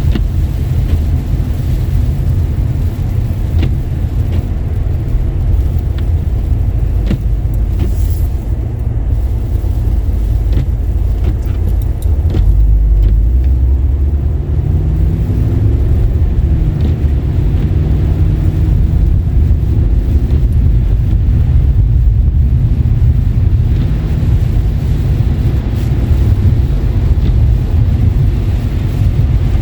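Car driving on a road wet with rain and snow: a steady low rumble of engine and tyres, louder about twelve seconds in as the engine note rises with acceleration.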